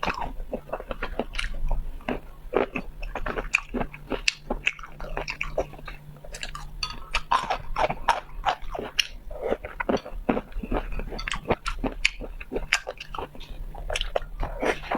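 Close-miked chewing and biting of food, a dense, irregular run of wet smacks and crunchy clicks.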